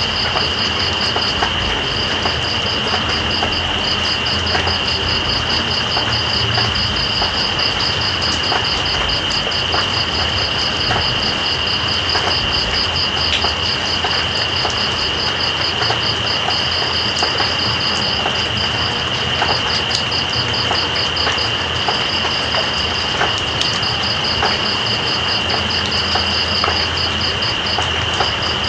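Night insects calling: one steady high-pitched trill and a second, faster pulsing trill above it, over the even hiss and patter of steady rain.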